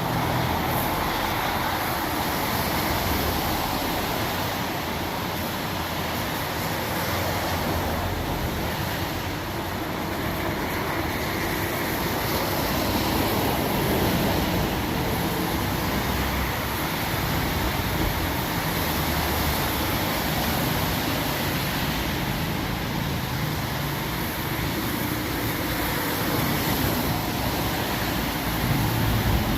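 Steady hiss of heavy rain mixed with traffic noise on a wet road, with a low vehicle rumble near the start and end.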